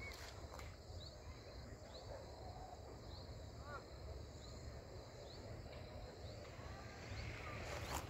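Birds calling: a short, high, rising chirp repeated about once a second, with a few lower arched calls in the middle, over a low steady rumble.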